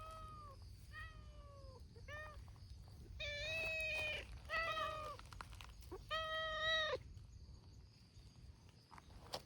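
Community cats meowing repeatedly: about six meows in quick succession, one of them long and drawn out, before a short lull near the end.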